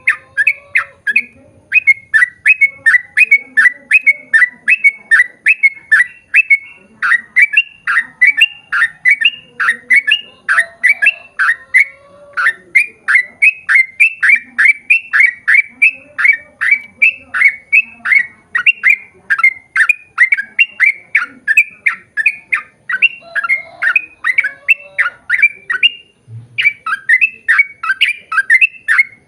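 Yellow-vented bulbul (trucukan) singing a long unbroken run of quick, repeated chirping notes, about three a second, with a brief pause about 26 seconds in.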